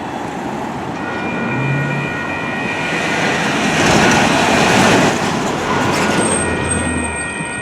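Denver light rail train passing over a street grade crossing, its rolling noise swelling to a peak about four to five seconds in and then easing off, with steady high-pitched tones through most of it.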